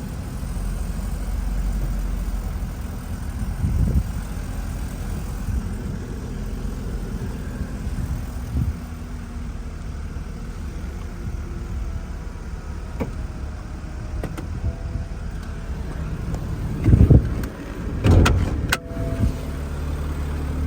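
BMW 228 convertible's power soft top folding down over the idling engine, a steady mechanical whir with a few knocks as it moves, and two loud clunks near the end as the top stows.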